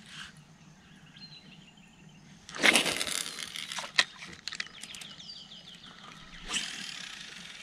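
Birds calling in runs of short, quickly repeated falling chirps. Two brief bursts of rushing noise come through, the louder about two and a half seconds in and another about six and a half seconds in.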